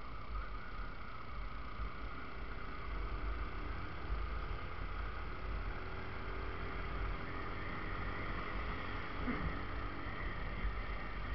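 Yamaha Factor motorcycle's single-cylinder engine running steadily while riding along a road, with a constant low wind rumble on the microphone.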